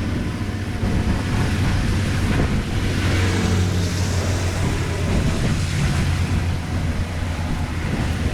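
Floodwater rushing and churning as it drains through a cleared road grate, a steady noisy rush with a low hum underneath.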